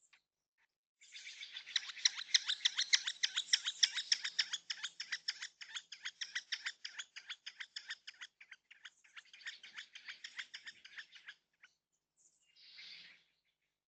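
A bird calling a long, rapid series of harsh, evenly repeated notes for about ten seconds, fading near the end, then one short call a little later.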